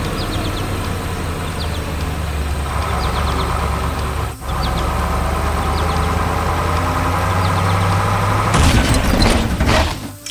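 Heavy vehicle engine running steadily, briefly dipping about four seconds in, then a loud clatter of impacts near the end.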